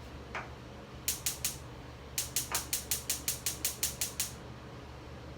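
Gas stove burner's spark igniter clicking, three clicks and then a quick run of about a dozen at roughly six a second, with the burner not lighting: the stove isn't working.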